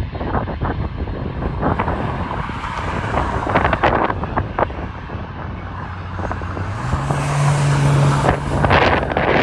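Jet airliner engine rumble with wind buffeting the microphone in gusts. The engine's low hum steps up in pitch about seven seconds in.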